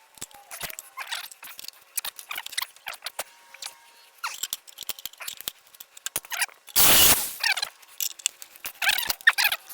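Rusted-out sheet-steel fuel tank being worked apart by hand: scattered scraping, crinkling and squeaking of the rotten metal, broken by a loud rushing burst about seven seconds in.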